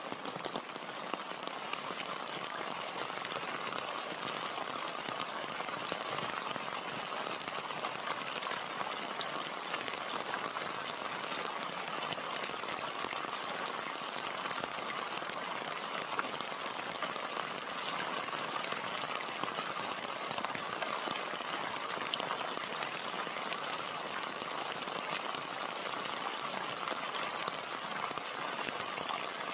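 Steady rain falling, a dense patter of individual drops over an even wash of noise.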